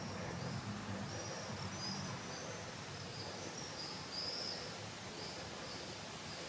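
Steady outdoor background noise with faint, high chirps of small birds, many short calls at irregular intervals.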